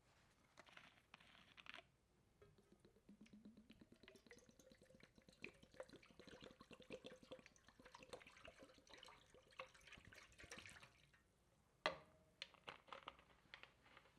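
Faint sound of liquid pouring into a container, its pitch rising over a couple of seconds as it fills, with small splashy ticks throughout and one sharper knock near the end.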